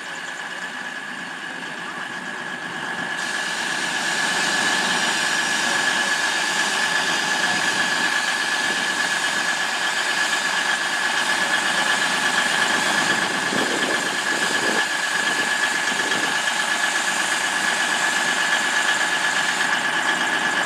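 Class 220 Voyager diesel-electric multiple unit's underfloor diesel engines running as the train pulls out, swelling over the first few seconds and then holding steady, with a constant high whine.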